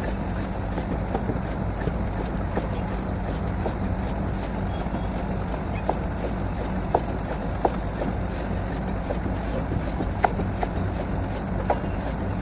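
Borewell drilling rig's engine running steadily, with a few short sharp knocks or clicks in the second half.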